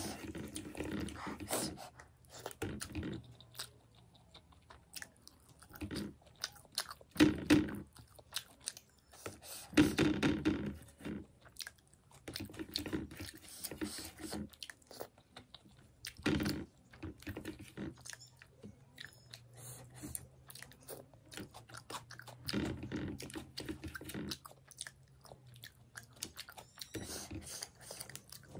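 Close-miked chewing of fish curry: irregular wet clicks and crunches in the mouth, with a louder bite every few seconds.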